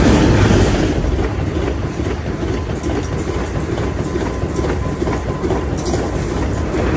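Diesel-hauled passenger train passing close at speed: loudest as the locomotive goes by at the start, then a steady rush of the coaches rolling past, with wheels clicking over the rail joints.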